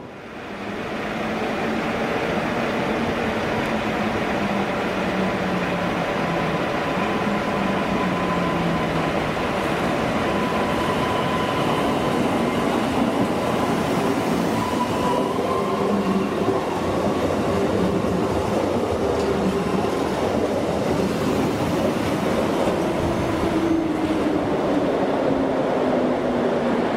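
Train running, a steady rumble with a whine whose tones slowly slide up and down in pitch.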